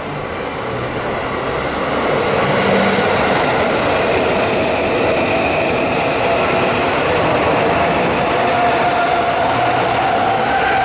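Electric commuter train running along the track, growing louder over the first two seconds and then holding steady, with a faint whine that rises slightly in pitch in the second half.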